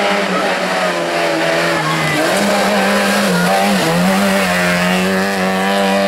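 Rally car engine running at high revs, its pitch holding mostly level, stepping up about two seconds in and dipping briefly twice near the middle.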